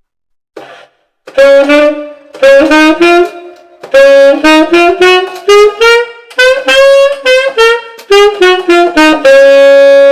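Tenor saxophone (a P. Mauriat XVIII) playing a D flat major scale. It climbs note by note and comes back down, each note tongued separately, and ends on a held low note.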